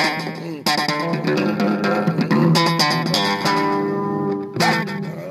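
Electric bass guitar playing a run of plucked and held notes, with short breaks about half a second in and near the end.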